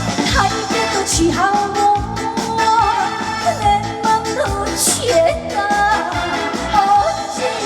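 Woman singing an upbeat trot song live over a band backing track with a steady beat.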